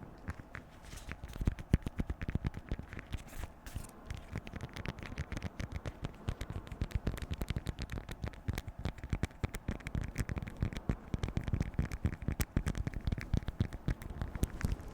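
Beeswax food wrap being crinkled and handled: a dense, irregular run of small crackles and scratches, sparser for the first second and busier after.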